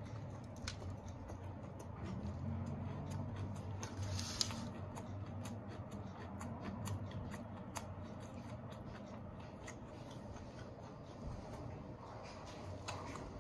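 Mouth-close chewing of a bite of crispy fried chicken sandwich: soft, irregular small crunches and wet mouth clicks.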